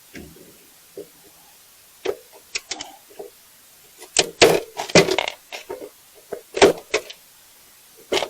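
A run of irregular knocks and clunks, loudest about halfway through, as a stuck part is knocked and worked to free it.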